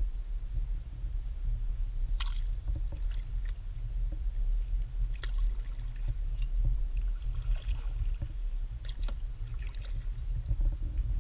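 Kayak paddling: scattered small splashes, drips and knocks of a paddle in the water, over a steady low rumble.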